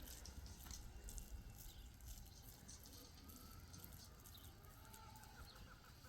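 Near silence: faint background ambience with a few faint clicks and some faint, short chirping calls in the second half.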